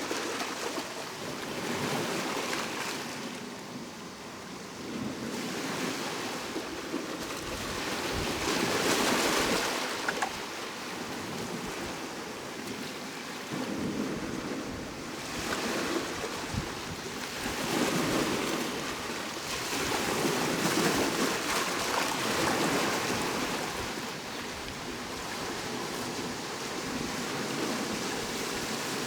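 Sea waves breaking and washing on the shore, a steady rush that swells and fades every few seconds.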